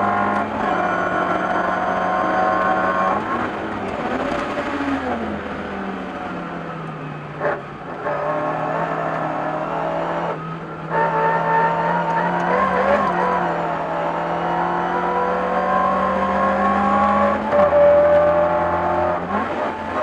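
Talbot Sunbeam 1600 race car's four-cylinder engine heard from inside the cabin, running hard at high revs, its pitch dropping and climbing again with gear changes and throttle lifts, with a brief cut about halfway through.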